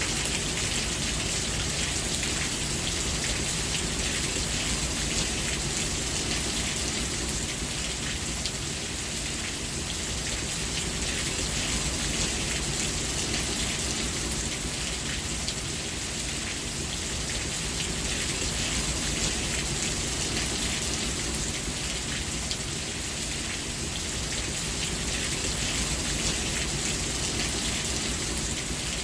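Steady rain falling on a surface, an even hiss with the patter of many scattered drops.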